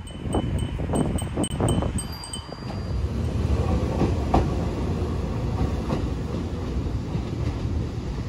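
Shintetsu (Kobe Electric Railway) electric train pulling away from the platform with a steady rumble of wheels and motors. For the first couple of seconds a high chime repeats about three times a second over some knocking.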